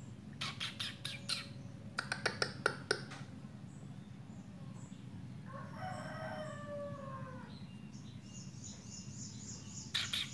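Two quick runs of harsh chirps near the start from a hand-held young bar-winged prinia as it is fed, with another run at the very end. A rooster crows once in the background about six seconds in, then a run of high, thin repeated chirps follows. A steady low hum runs underneath.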